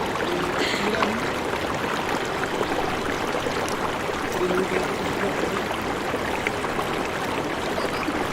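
Steady rushing of water, an even continuous wash with no engine tone in it, with faint voices in the background.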